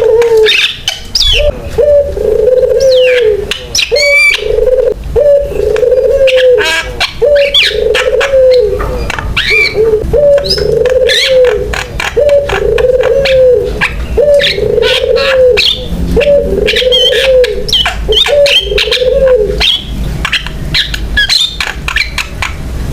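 Javan myna singing: a stream of sharp chirps, clicks and whistles, over a low cooing note repeated about once a second that stops a few seconds before the end.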